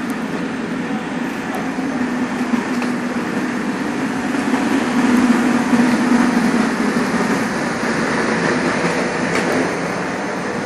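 Trenitalia passenger coaches rolling slowly past along the platform: a steady rumble of wheels on rails with a low hum that grows louder towards the middle.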